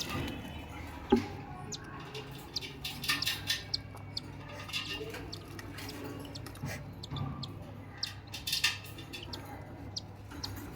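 Pet cockatiels making short, scattered chirps and clicks, with a low steady hum underneath.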